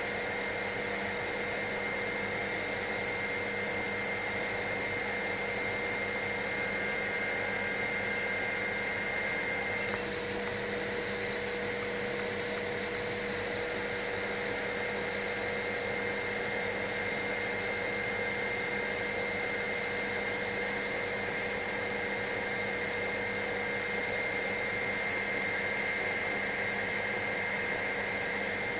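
Helicopter in cruise flight heard from inside the cabin: a steady drone of rotor and engine with several constant high tones running over it.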